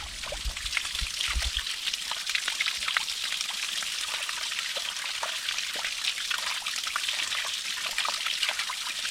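A small woodland stream trickling and babbling over rocks in a steady, close stream of water sound, with a low rumble in the first couple of seconds.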